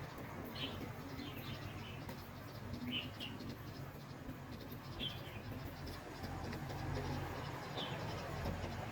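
Steady wash of surf against a rocky shore, with short high chirps every second or two, like a small bird calling.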